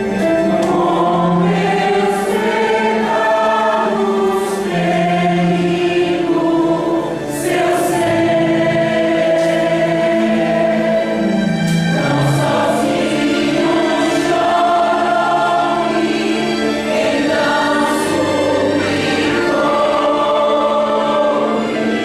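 A choir singing a slow hymn over a backing track.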